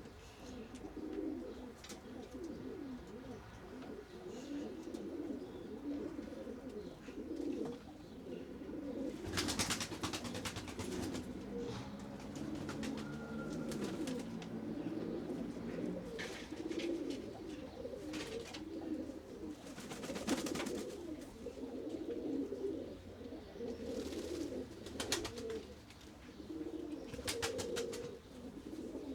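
Many pigeons cooing at once, a continuous overlapping murmur of low coos, broken several times by short bursts of rapid clatter, the loudest about ten and twenty seconds in.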